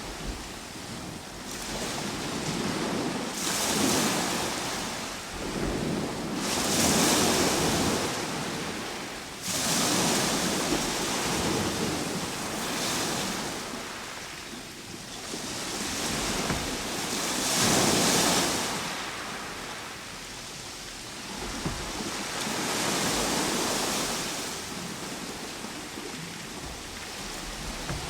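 Ocean surf: waves breaking and washing back, the rushing noise swelling and fading every few seconds.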